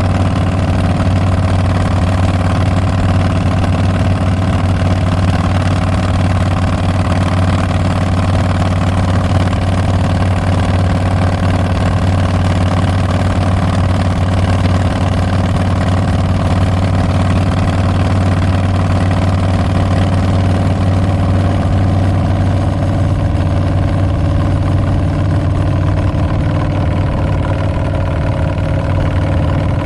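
Harley-Davidson Street Bob's Milwaukee-Eight 114 V-twin running through Tabs Performance slip-on mufflers with Zombie baffles, holding a steady engine speed with a loud, even exhaust note that shifts slightly about 25 seconds in.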